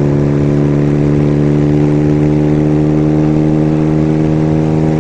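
Kawasaki 440 parallel-twin motorcycle engine running steadily under way, holding an even pitch, with a low wind rumble underneath.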